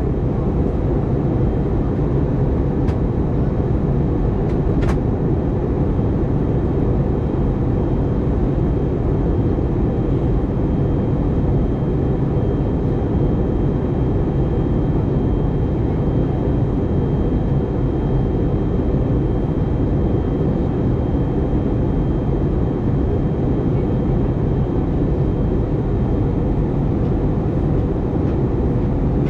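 Steady in-flight cabin noise of an Airbus A320neo with CFM LEAP-1A engines: a low, even rush of airflow and engine noise, with a faint high whine over it.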